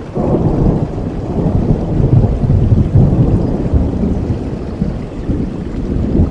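Rain falling with a long, low rumble of thunder that swells in the first seconds and keeps rolling unevenly.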